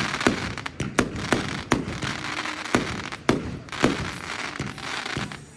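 Fireworks going off in a barrage: about nine sharp bangs at uneven intervals, roughly one to two a second, over continuous crackling.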